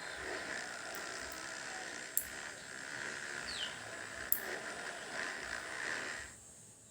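Motocross bikes racing on the track at a distance, a steady engine buzz, with two sharp clicks; the sound drops away abruptly about six seconds in.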